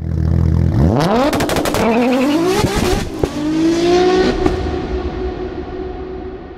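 Car engine revving hard, climbing in pitch through three rising pulls like gear changes, with a sharp crack about three seconds in, then holding a steady note and fading away.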